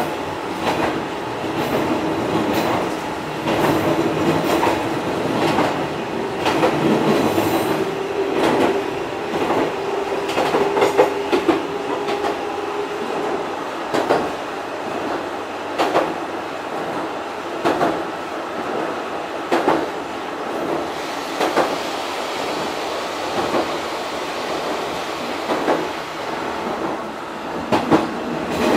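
Fukui Railway type 200 electric railcar running on the line, its wheels clacking over rail joints about every two seconds. A steady low hum sits under the running noise in the first half and fades out around the middle.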